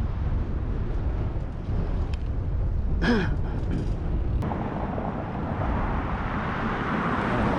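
Wind buffeting the microphone during a bicycle ride, a heavy low rumble. After about four seconds it turns into a broader rushing noise that builds toward the end, and a short falling tone sounds about three seconds in.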